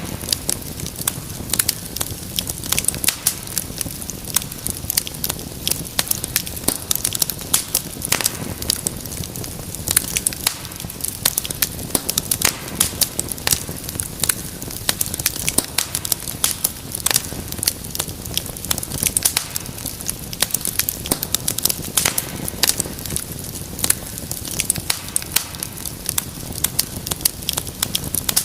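Wood fire burning in a fireplace, with dense, irregular crackles and pops over a steady low hiss of the flames.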